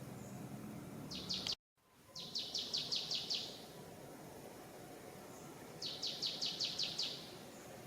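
A bird calling in quick runs of six to eight high, evenly spaced chirps, repeated several times over a steady background hiss of forest ambience. The sound cuts out for a moment about a second and a half in.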